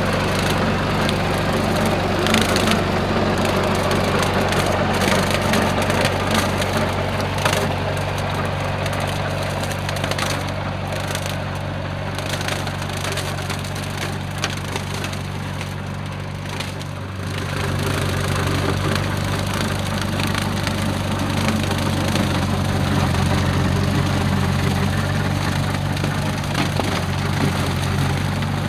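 Tractor engine running steadily under load while a bush hog (rotary cutter) shreds dry corn stalks, with continuous snapping and crackling of the stalks over the drone. The engine note dips briefly a little over halfway through.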